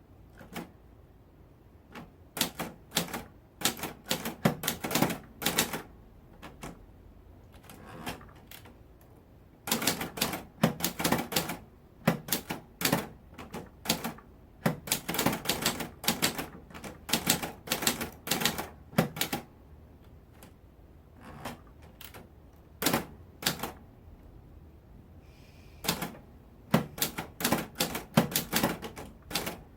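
Typewriter keys striking in quick runs of clacks, broken by short pauses between words and lines.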